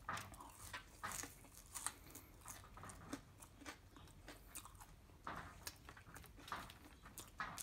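Close-miked chewing of a mouthful of fast-food fries: quiet, irregular wet mouth clicks and soft crunches.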